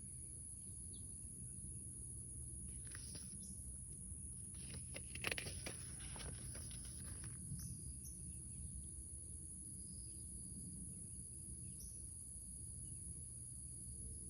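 Sketchbook paper rustling as a page is turned, a brief crinkle about three seconds in and a louder rustle about five to seven seconds in, over a steady low hum and a faint steady high-pitched tone.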